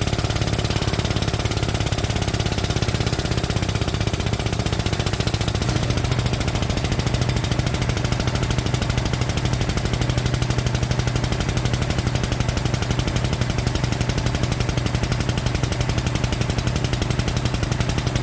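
A machine running steadily with a rapid, even chatter and a low hum, while the wrecked car's front end is held under pulling tension.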